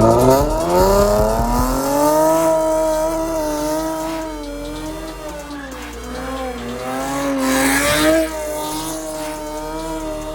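Car engine revving up sharply, then held at high revs with a wavering pitch while its tyres squeal in a slide, with a rush of noise about eight seconds in.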